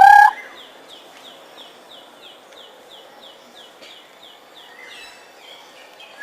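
Garden birds calling: a loud rising call cuts off just after the start, then a steady run of short, high, falling chirps, about three a second, goes on, with a few softer calls about five seconds in.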